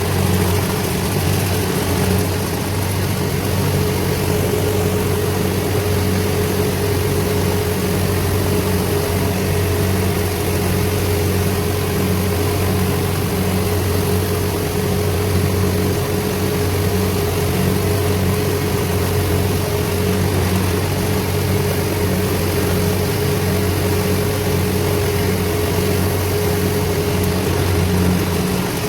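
Diesel engine of farm harvesting machinery running steadily at constant speed, with a steady higher-pitched hum over the low engine note.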